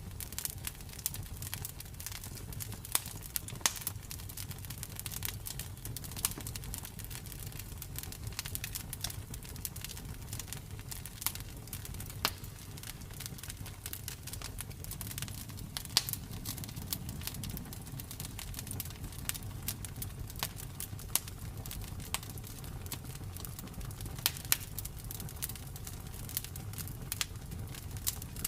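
Campfire crackling: a constant patter of small snaps and pops, with now and then a sharper, louder pop, over a low steady rumble of the burning fire.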